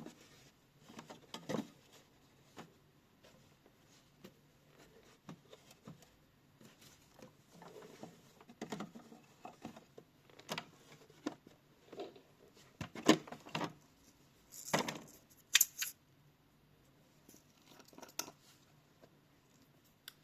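Handling noises from a toy washing machine: irregular small clicks, taps and rustles of plastic parts and fabric, with the sharpest clicks about two-thirds of the way through.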